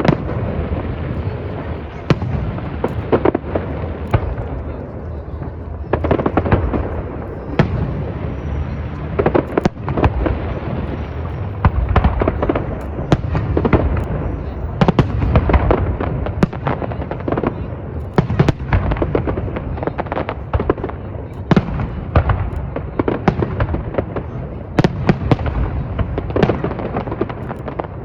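Fireworks display going off in quick succession: many sharp bangs and crackles, irregular and often overlapping, over a continuous rumble from the ongoing explosions.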